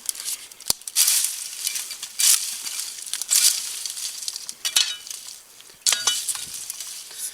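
Briars and brush being knocked aside, about five brushy swipes a little over a second apart, with a sharp click just before the first.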